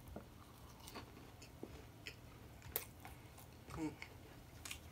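A person chewing food quietly, with a few sharp mouth clicks and smacks and a brief murmur near the end.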